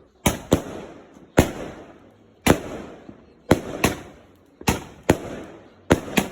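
Fireworks going off: about ten sharp bangs roughly a second apart, some in quick pairs, each trailing off in a rolling echo.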